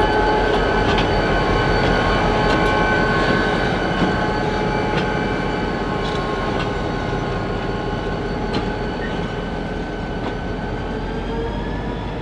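EMD GP40-2 diesel locomotive moving cars in a yard: a steady engine drone with a whine of several held tones, sharp metallic clanks now and then, slowly growing quieter.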